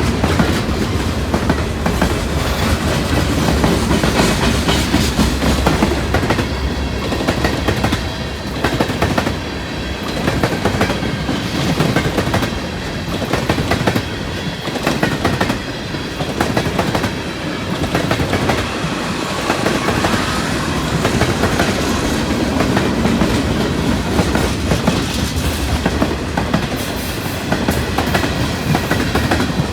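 Freight train rolling past, its wheels clattering in a steady clickety-clack.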